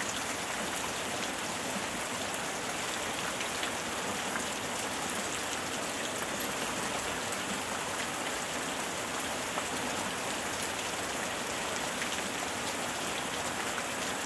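Steady rain falling on a swimming pool's water: a dense, even hiss scattered with many fine drop ticks.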